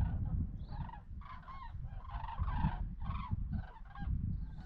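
A large flock of migrating birds flying in V formation, many birds honking and calling at once in a continuous overlapping chorus, over a steady low rumble.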